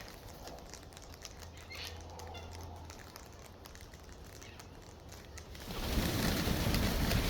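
A gust of wind coming up about six seconds in, a loud rushing noise with a deep rumble of wind buffeting the microphone. Before it, the yard is quieter, with faint scattered ticks and a few short chirps.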